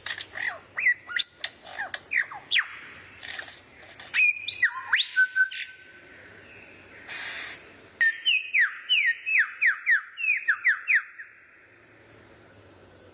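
Recorded songbird song: sharp, high whistled notes that sweep steeply down in pitch, broken by short pauses, with one held whistle about halfway and then a fast run of about a dozen down-slurred whistles, roughly four a second, near the end.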